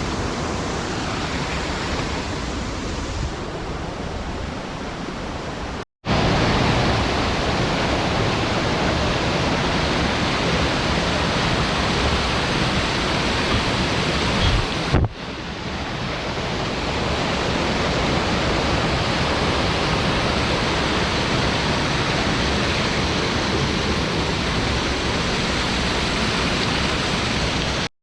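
Steady rushing outdoor noise, even across high and low. It drops out for a moment about six seconds in and dips again briefly about fifteen seconds in.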